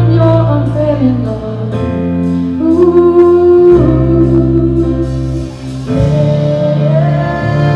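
Live worship band playing sustained chords, with guitar and a singing voice, the harmony changing every second or two.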